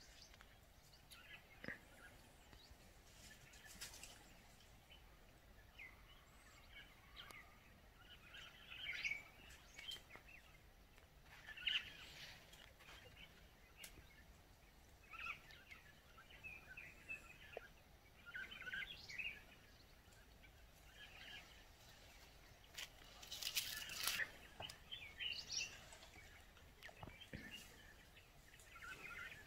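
Faint, scattered bird chirps over near silence. A brief, louder noise comes about three-quarters of the way through.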